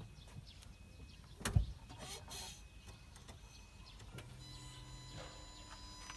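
A sharp click about one and a half seconds in, then a faint, steady electric whine that starts about four seconds in, as the car's ignition is switched on before a cold start.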